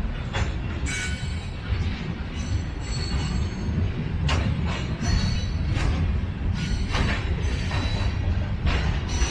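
Freight train rolling past, a steady low rumble with irregular metallic clanks and a few brief high-pitched wheel squeals.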